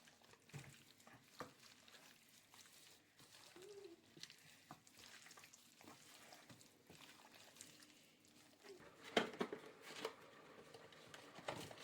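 Near silence with faint scattered clicks and light handling noises, and a slightly louder cluster of clicks about nine seconds in.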